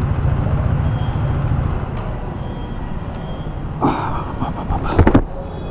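Motorcycle engine running with wind and road noise, dying away as the bike slows to a stop. A brief rustle and a few sharp clicks follow near the end.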